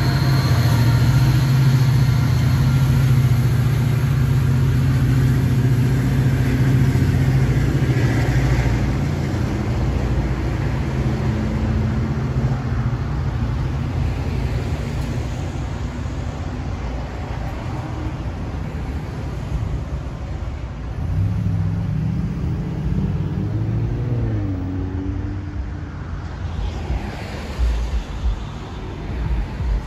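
Low, steady rumble of an NJ Transit diesel train's engine, slowly fading as the train draws away. Around two-thirds of the way through, an engine briefly rises in pitch.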